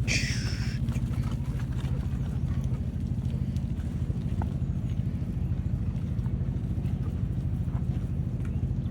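Small engine of a farm vehicle running steadily at low speed, with a fast even pulse. A brief high squeal comes right at the start.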